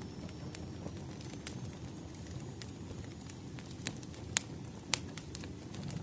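Crackling firewood fire: a low steady rumble of burning wood with sharp pops and snaps scattered through, the loudest two at about four and a half and five seconds in.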